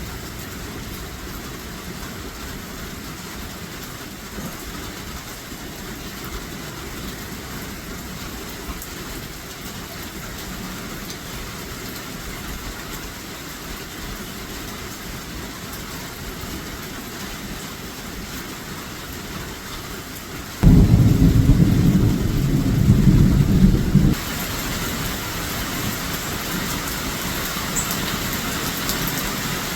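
Steady rain and storm noise. About two-thirds of the way in, a loud low rumble lasts for about three and a half seconds and stops abruptly. After it, the hiss is brighter.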